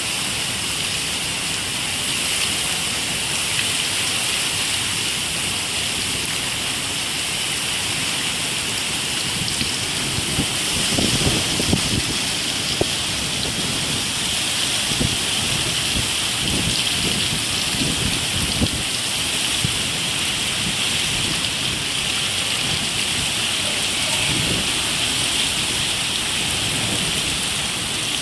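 Heavy rain falling steadily as a dense hiss, with stretches of low rumbling and a few sharp knocks between about ten and nineteen seconds in.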